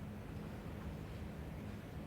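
A low, steady hum of background room tone, with no distinct events.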